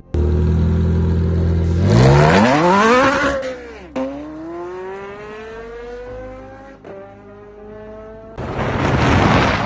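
A Porsche supercar engine running through a very loud custom exhaust, in separate edited clips. First a steady deep drone, then about two seconds in a sharp rev that rises and falls. After a cut the pitch climbs slowly as it accelerates, and near the end comes a loud, rough blare.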